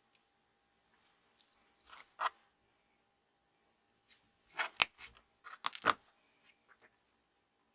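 Small handling sounds at a workbench: a couple of brief scratches about two seconds in, then a quick run of snips, clicks and scrapes about halfway through, with one sharp click the loudest.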